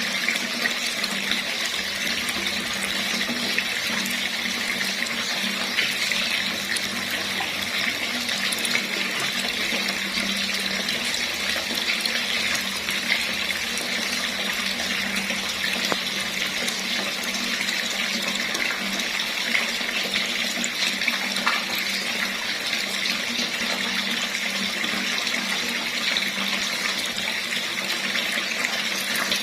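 Water running steadily from a tap, an unbroken splashing hiss.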